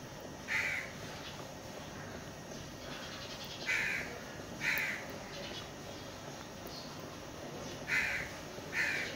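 A bird calling five times, each a short single call, over a steady low background noise.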